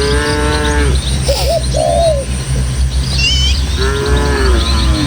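Cattle mooing, two long, level calls of about a second each, one at the start and one about four seconds in, while small birds chirp and twitter around them.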